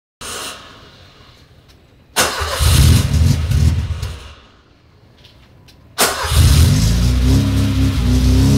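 First-generation VW Gol's engine starting. About two seconds in it fires with a loud burst and runs briefly before fading out. About six seconds in it catches again and settles into a steady, loud, rumbling idle.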